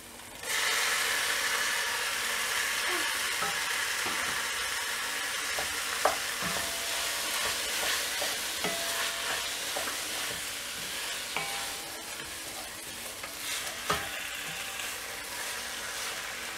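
Raw diced chicken sizzling as it hits hot oil and masala in a nonstick pot, the sizzle starting suddenly about half a second in and slowly dying down. A wooden spatula stirs and scrapes through it, with scattered knocks against the pot.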